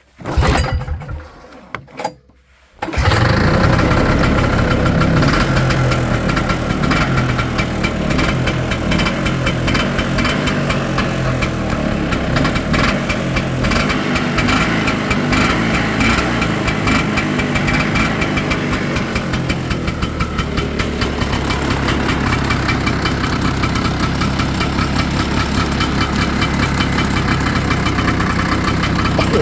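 Polaris Star engine started from cold: a short burst about half a second in, then it catches about three seconds in and runs steadily at idle.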